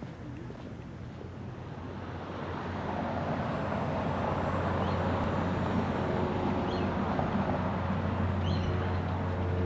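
A boat's engine drawing nearer, a steady low hum that grows louder over the first few seconds and then holds. A few short bird chirps sound faintly over it.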